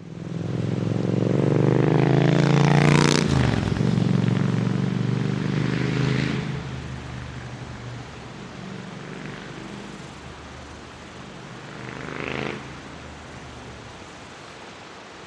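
Triumph Scrambler 900's parallel-twin engine and exhaust as the motorcycle rides past at speed: the note grows as it approaches, drops in pitch as it passes about three seconds in, then fades away. About twelve seconds in the exhaust note briefly swells again in the distance.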